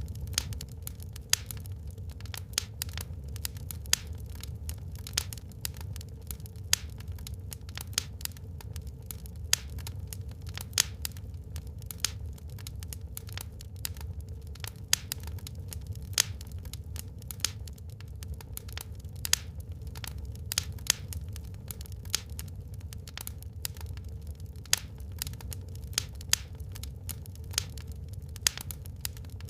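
Wood fire burning in a fireplace, crackling and popping irregularly, several sharp snaps a second, over a steady low rumble of the flames.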